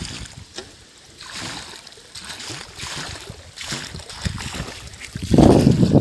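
Water and air gushing in uneven surges from the delivery pipes of a compressor-driven air-lift borewell pump, with the biggest gush near the end.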